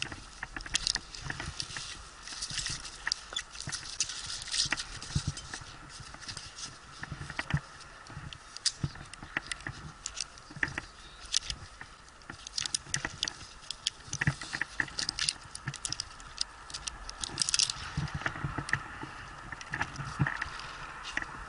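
Irregular close-up clicks, taps and rustling, coming in quick clusters at times, like gear, rope and clothing being handled.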